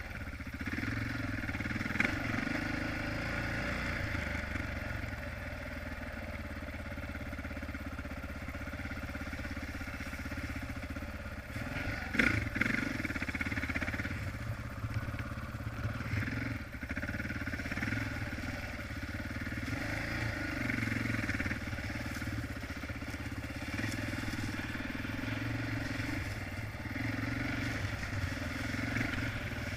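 Honda XR650R single-cylinder four-stroke dirt bike engine running while being ridden, its pitch rising and falling with the throttle. Sharp knocks sound about 2 seconds in and again around 12 seconds in.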